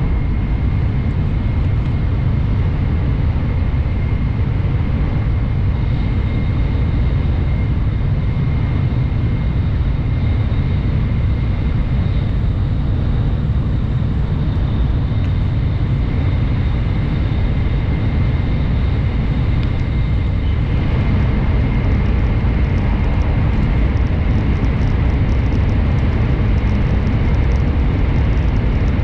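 Shinkansen bullet train running at high speed, heard from inside the passenger cabin: a steady loud low rumble of wheels and airflow with a thin steady whine above it. The noise shifts slightly about twenty seconds in as the train moves between tunnel and open track.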